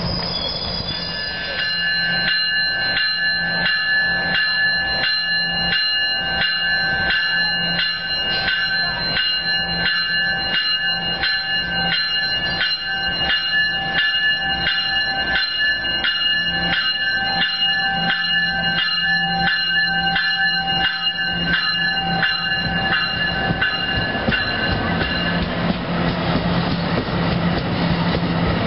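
NJ Transit double-deck commuter train rolling slowly past, cab car first, with a bell ringing about twice a second over a steady low hum. The bell stops a few seconds before the end, leaving the rumble of the passing cars.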